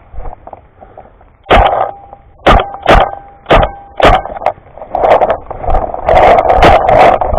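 Paintball markers firing: five separate shots over a couple of seconds, then from about five seconds in a rapid, continuous string of shots.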